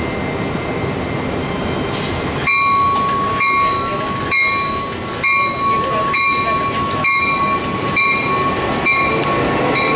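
A Metra Electric Highliner electric multiple-unit train rolling past a station platform with a steady rumble. From a couple of seconds in, a steady high whine joins the rumble, along with rhythmic wheel clacks over rail joints about once a second.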